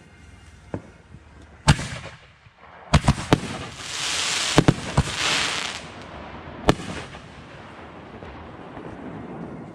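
Fireworks going off: a series of sharp bangs, the loudest about two seconds in, with a cluster of bangs around three and five seconds in. Between them a loud hissing crackle runs from about three and a half to six seconds in, then dies down to a faint hiss.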